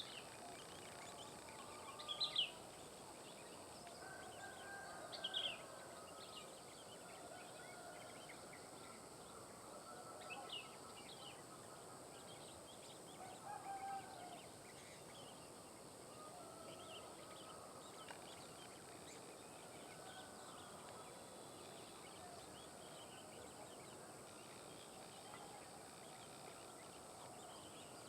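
Sooty-headed bulbul calling faintly in the wild, short thin chirps scattered throughout, with a few louder calls about four times, over a steady hiss and other faint distant bird calls.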